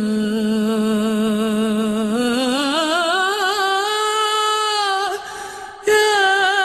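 Woman singing a long melismatic vowel in Arabic Sufi style: she holds a low note, glides up about two seconds in to a higher note held with wavering vibrato, breaks off about five seconds in, and starts a new note near the end.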